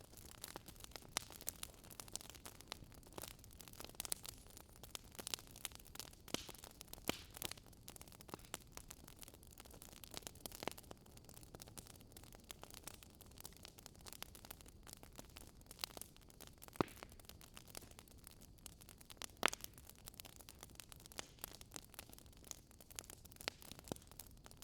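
Wood fire crackling: irregular sharp pops and snaps over a soft hiss, with a few louder pops.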